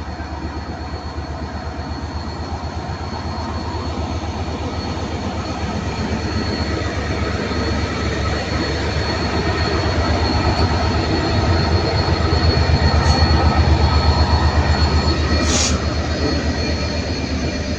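Class 66 diesel freight locomotive 66951 passing under power: its two-stroke V12 diesel engine makes a throbbing low rumble that builds to its loudest about three-quarters of the way through, then eases. A short high screech comes about 15 seconds in.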